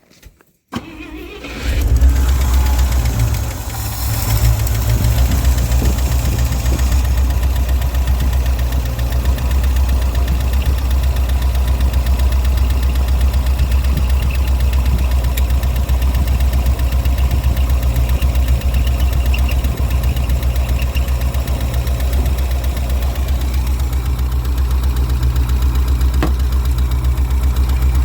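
1967 International 1200 truck's engine catching on a cold start about a second in, then running and idling steadily. It has been starved of fuel at the carburetor, and the owner believes hammering on the stuck needle and seat is what got it running.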